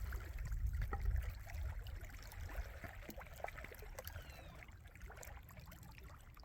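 Water trickling and running over a low rumble, with scattered small clicks, gradually fading out toward the end.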